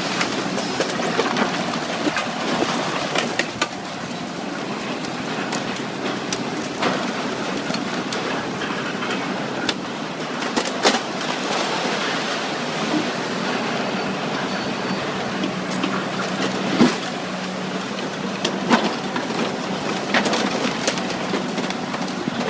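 Heavy scrap-handling machinery working on old cars: a steady engine hum under a continuous grinding clatter of metal, with scattered sharp clanks and knocks.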